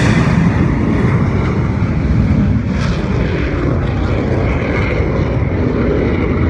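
Airplane engine noise from an aircraft flying at an air show: a loud, steady drone.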